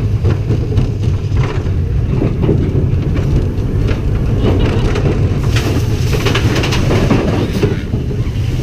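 Train cars rolling along a track, heard from on board: a steady low rumble with scattered clicks from the wheels on the rails, and a brighter hiss that swells for a couple of seconds past the middle.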